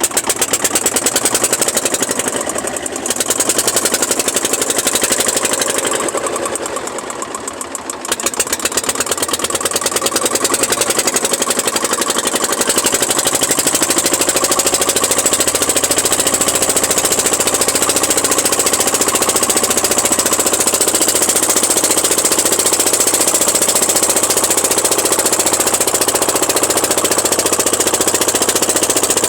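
A small boat's engine running loud with a rapid, even knocking beat. It eases off briefly twice in the first several seconds, then runs steadily.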